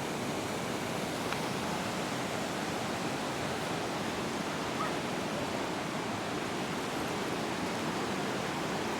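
Steady rushing of a waterfall and its creek, an even wash of water noise.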